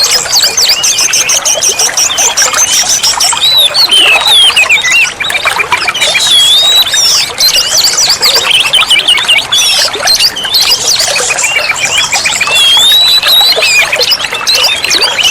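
Oriental magpie-robin (kacer) singing without pause: a fast, varied run of whistles, chirps and quick glides, broken by rapid high trills near the start and again about ten seconds in.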